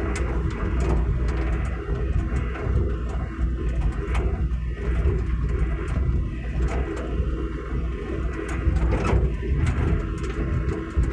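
Hitachi mini excavator's diesel engine running steadily, with scattered light knocks.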